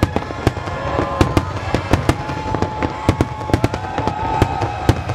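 Aerial fireworks display: many sharp bangs and cracks of bursting shells in quick succession, several a second, over a continuous low rumble.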